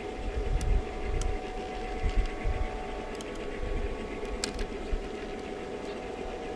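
Steady hum of the small electric motors and gearing running a garden railway's working models, with a few faint clicks and an uneven low rumble underneath.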